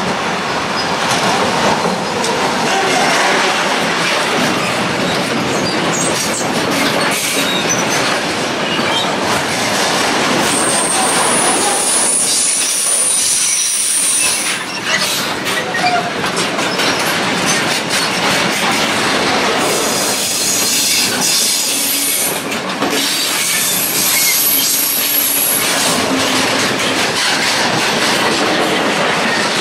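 Electric-hauled freight train running past close by, a steady loud rumble and rattle of its wagons' wheels on the rails with clickety-clack over the rail joints. A high, thin wheel squeal rises over it about ten seconds in for a few seconds, and again about twenty seconds in.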